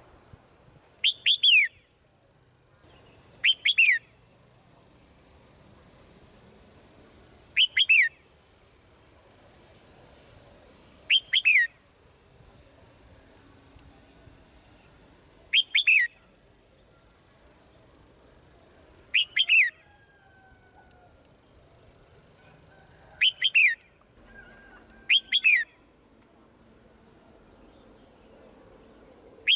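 Swallow calling: a short call of two or three quick downward-sliding whistled notes, repeated about every three to four seconds, over a steady high-pitched hiss.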